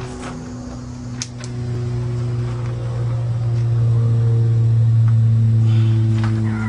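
An engine running steadily with a low hum, getting a little louder partway through. Two short clicks come about a second in.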